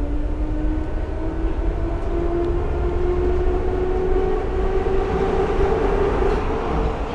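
Budapest M2 metro train accelerating: its traction motors whine, rising steadily in pitch, over a low rumble of wheels on the rails.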